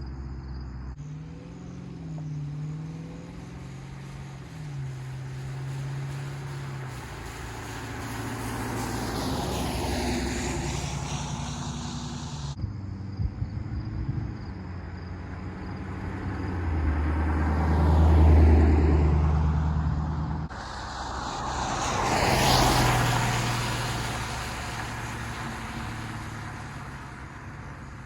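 A Dodge's engine and exhaust across several short joined clips. Each clip swells and fades as the car passes or revs, with the loudest swell about two-thirds of the way through.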